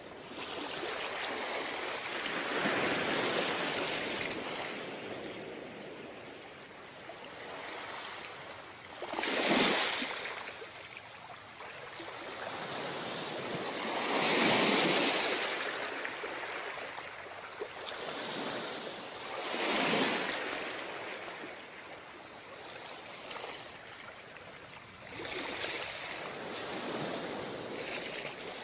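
Ocean waves breaking on a beach, each wave swelling into a hiss and dying away again every five seconds or so, with the biggest breaks about a third of the way in, midway and two-thirds through.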